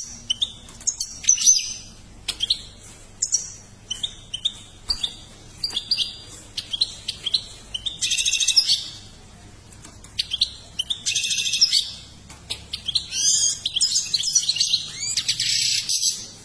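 A bird chirping repeatedly in short high calls, breaking into longer trilling song phrases a few times, about eight seconds in, around eleven seconds, and again near the end.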